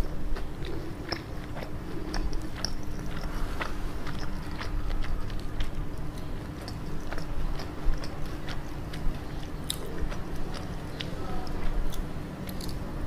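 Close-miked chewing and biting of spicy glazed fried chicken dipped in creamy sauce: wet mouth sounds with many short, sharp clicks and crunches, over a faint steady hum.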